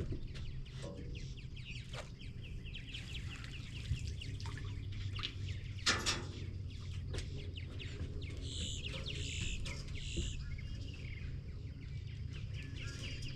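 Birds chirping and calling repeatedly in quick short notes, with a few louder calls about two-thirds of the way through, over a steady low hum.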